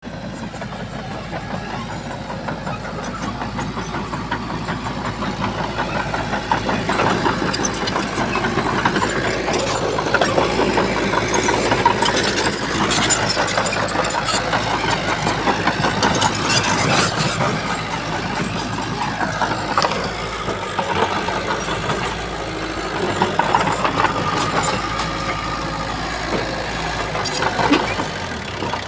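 Heavy earthmoving machine's engine running under work, with scattered knocks and clanks. It grows louder over roughly the first ten seconds, then holds steady.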